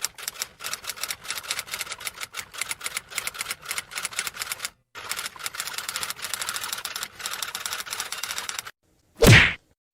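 Rapid, irregular clacking of typewriter keys in two runs with a brief break between them, then a short, loud sweep falling in pitch near the end.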